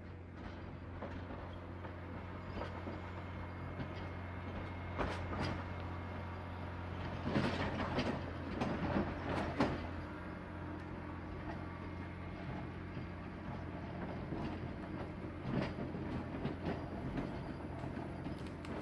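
John Deere 670 motor grader's diesel engine running steadily, with spells of clanking and rattling from the working machine, heaviest a little before the middle.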